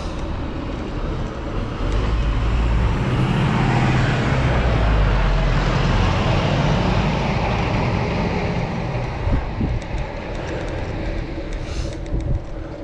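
A motor vehicle passes close by on the road: its engine and tyre noise rise over about two seconds, are loudest around five seconds in, and fade away by about nine seconds in.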